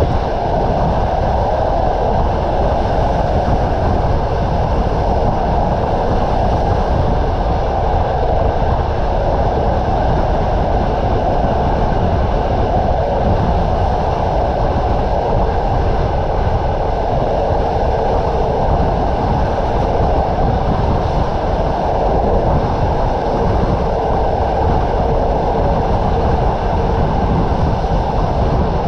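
Train running steadily along the rails, a continuous loud rumble of wheels and carriage with no breaks.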